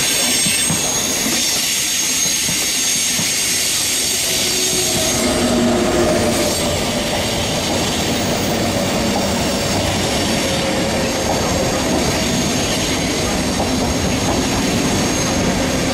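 ÖBB Railjet passenger train running along the platform: a steady rumble of wheels on rail with high-pitched wheel squeal throughout.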